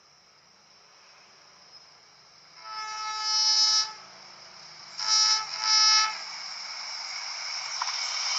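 Train horn sounding one long blast and then two short ones, as a train approaches; the noise of the oncoming train grows steadily louder near the end.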